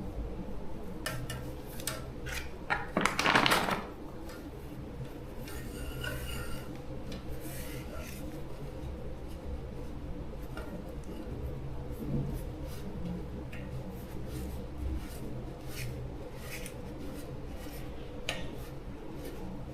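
Small metal parts and hand tools being handled during a repair: scattered light clinks and taps, with a longer scraping rasp about three seconds in, over a steady low hum.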